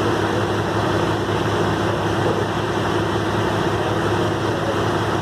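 Heavy tow truck's diesel engine running at a steady speed, a constant low drone with no change in pitch.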